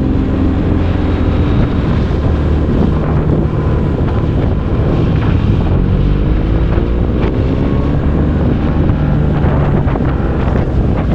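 BMW R 1250 GS boxer-twin engine with an Akrapovic exhaust running under way, its note dropping and then climbing again as the revs change, with wind rushing over the microphone.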